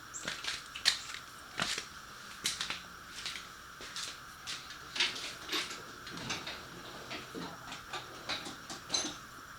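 Irregular sharp metallic clicks and taps of hand tools working on the exhaust bolts, a few per second and uneven in loudness.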